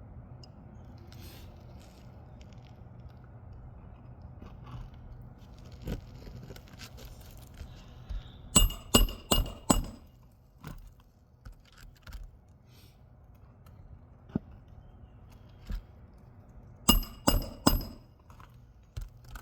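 A hammer driving roofing nails into asphalt shingles: two runs of four quick strikes, each with a metallic ring, about eight seconds apart, between scattered lighter knocks.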